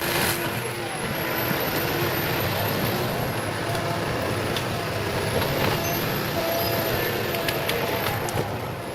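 Heavy forestry machine running steadily: a continuous engine hum with a faint high whine that wavers slowly in pitch.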